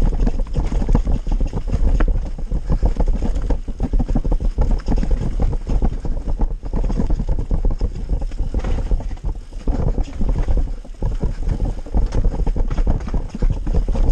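Heavy wind buffeting on the microphone, a loud low rumble, with many quick knocks and rattles throughout.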